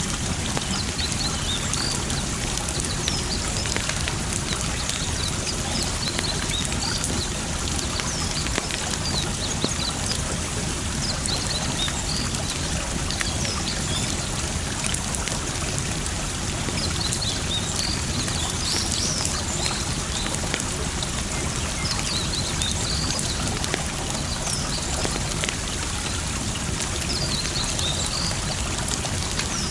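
Campfire crackling and popping over steady running water. Short high bird chirps come in clusters every few seconds.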